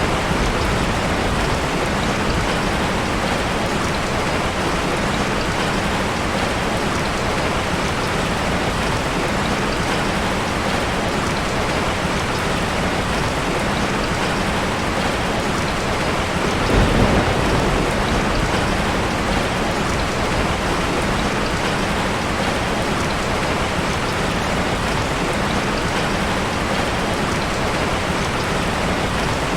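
Heavy rain falling steadily, with a brief low rumble of thunder a little past halfway.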